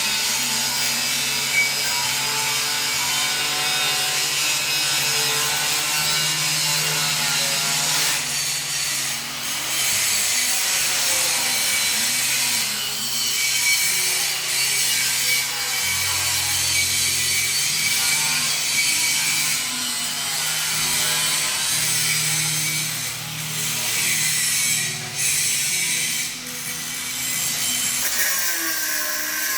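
Power tool cutting 2 mm steel plate, most likely an angle grinder with a cut-off disc, making a continuous harsh grind. Its whine wavers up and down as the disc loads, with a few brief dips, around a third of the way in and again near the end.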